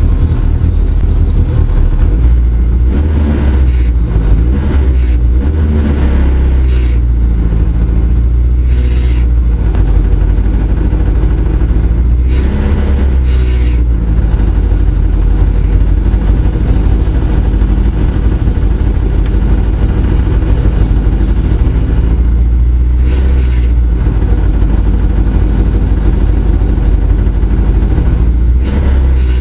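Rally car engine running at a standstill, heard loud from inside the cabin, revved up in several short blips between steady stretches.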